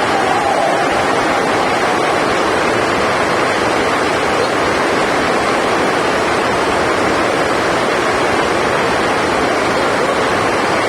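Heavy rain drumming steadily on the roof of a sports hall, an even rushing noise with no let-up.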